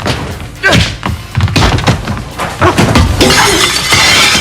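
Two men brawling in a kitchen: repeated thuds and thumps of blows and bodies striking things, mixed with shouts and grunts. A denser crashing clatter starts about three seconds in.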